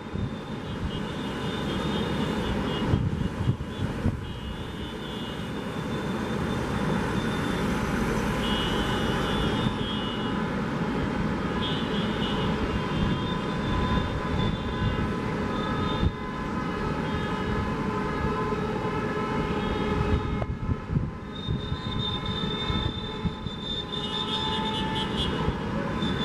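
Steady wash of ocean surf on a beach, with vehicles passing on the seafront road. Their engines add a steady whine that comes and goes.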